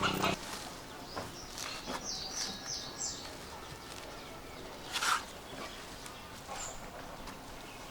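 A small bird sings a quick run of four high, falling chirps about two seconds in, with a few single chirps later. A single sharp knock comes about five seconds in.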